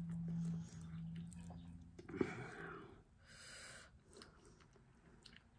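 Close-up chewing and soft mouth noises of a person eating boneless milkfish and rice. A low steady closed-mouth hum runs through the first half, then a few short wet smacks.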